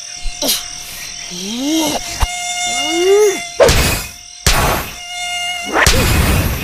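Steady buzzing insect ambience, crossed by two rising-then-falling pitched calls in the first half and three loud rushing noise bursts in the second half, the last one the longest.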